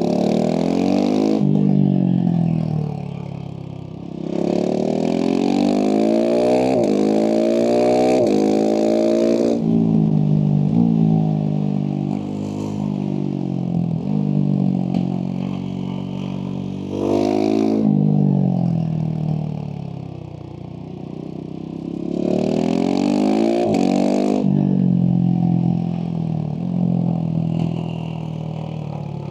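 Husqvarna 701 SM's single-cylinder engine through a Leovince slip-on exhaust, accelerating hard through the gears with a drop in pitch at each upshift, then falling away as the throttle closes. This happens several times, the revs rising and sinking in turn.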